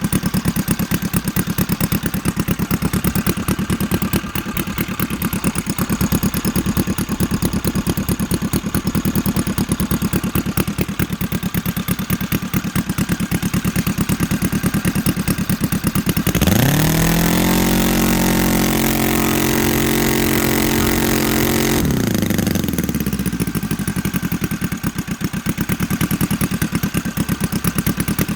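Roto 85 FSi four-stroke model aircraft engine running through a prototype 2-in-1 exhaust. It idles with a rapid, even beat, then about sixteen seconds in is run quickly up to high revs and held steady for some five seconds, before dropping back to idle.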